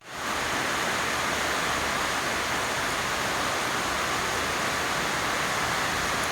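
Steady rain falling, an even hiss with no rhythm or separate drops standing out.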